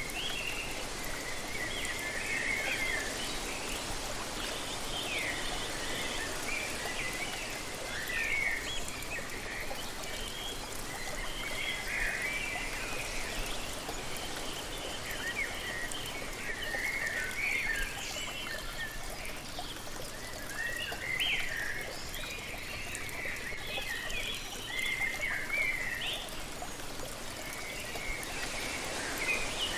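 Waterfall splashing steadily, with birds chirping and calling often throughout.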